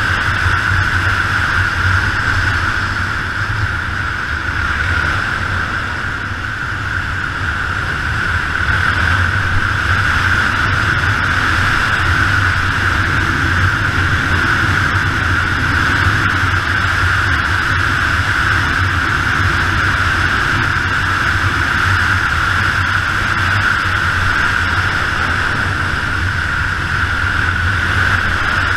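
Yamaha XT 600's air-cooled single-cylinder four-stroke engine running at a steady road speed under a steady rushing noise, easing slightly a few seconds in.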